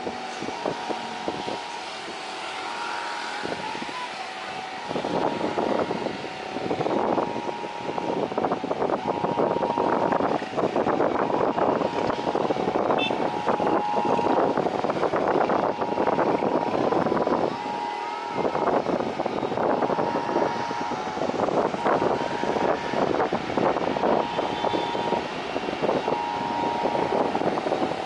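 Strong gusty wind buffeting the microphone, growing heavier about five seconds in, with a faint steady hum underneath.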